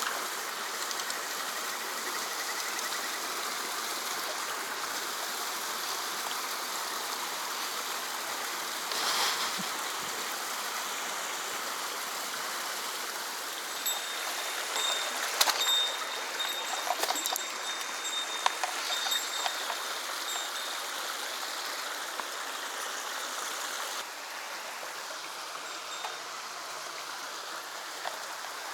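Small mountain stream flowing steadily over rocks. About halfway through there are a few sharp clicks and, for several seconds, a thin high tone.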